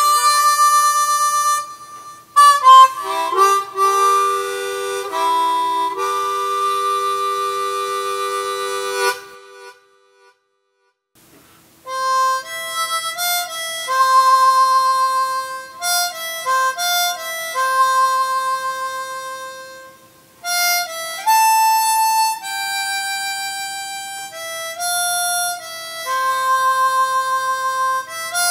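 Background music: a harmonica melody of held notes and short runs. It breaks off for about two seconds before the middle, then resumes.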